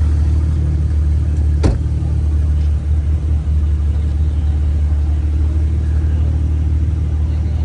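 Car engine idling with a steady low rumble. A single sharp click sounds about a second and a half in.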